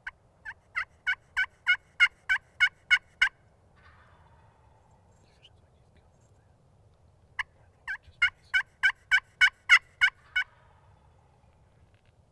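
Turkey yelping: two series of about ten sharp yelps each, evenly spaced at about three a second and growing louder through each run. The first series starts at once and the second comes about seven seconds in.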